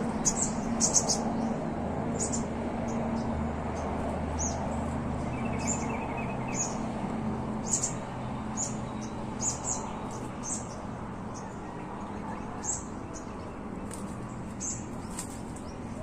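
Small birds chirping: short, high chirps scattered irregularly, with a cluster of louder ones near the start and a brief buzzy trill about five seconds in, over a steady low hum.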